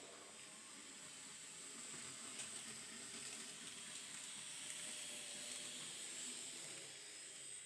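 An N gauge model train running on the layout: a faint, steady high-pitched whine and hiss from the small locomotive motor and wheels on the track. It swells slowly and fades near the end.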